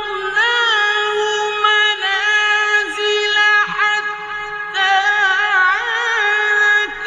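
Male Quran reciter chanting in a high register, holding long notes and bending them through ornamented melodic turns.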